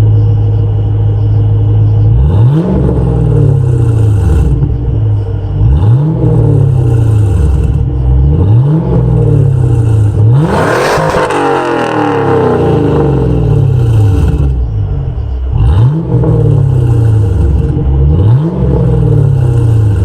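2002 Pontiac Firebird WS6's LS1 V8 through an SLP exhaust muffler, idling steadily and revved six times. Each rev rises quickly and falls back to idle, and the biggest and longest comes about ten seconds in.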